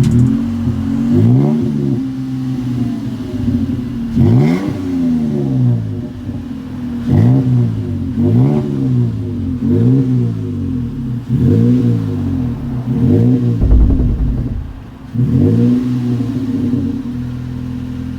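2019 Toyota Tacoma's 3.5-litre V6 through a Flowmaster Delta 40 cat-back exhaust with upsized pipe, blipped repeatedly from idle. Each rev rises and falls back to idle about every second and a half, with a deep exhaust tone.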